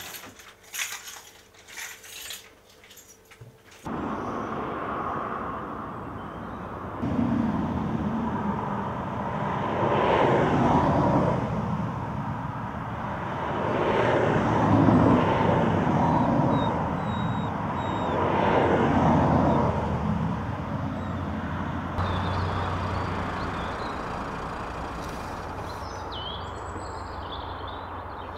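Motor vehicle noise: a few short knocks in the first four seconds, then a steady rumble that swells about three times and slowly fades.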